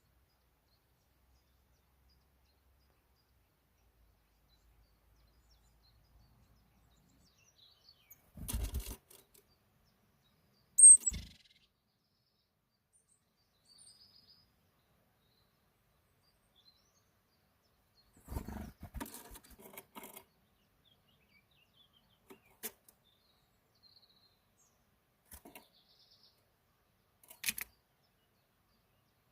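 A bird gives one brief high chirp falling in pitch about eleven seconds in. Scattered short rustling and tapping noises come and go, with long near-silent gaps between them.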